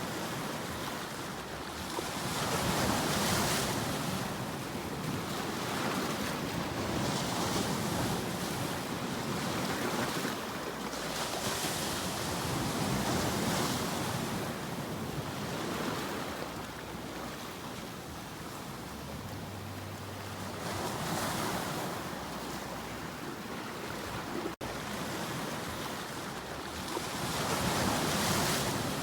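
Ocean surf: waves breaking, the noise swelling into a surge every five seconds or so, with a momentary cut in the sound near the end.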